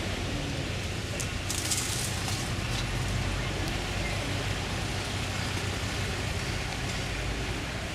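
Steady low rumble and hiss of a moving vehicle, with a short crackle about a second and a half in.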